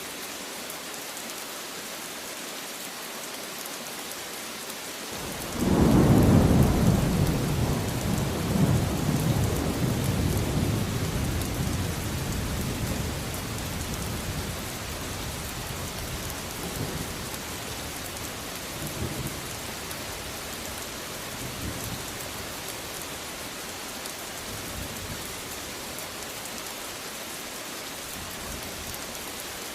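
Steady heavy rain with a clap of thunder about five seconds in that breaks suddenly and rumbles on, fading away over the next ten seconds or so, with a couple of fainter rolls after it.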